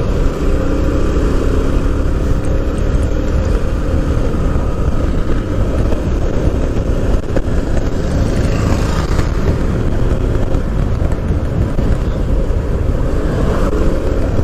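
TVS Apache RTR 160 motorcycle's single-cylinder engine running steadily while riding, with heavy wind rumble on the microphone.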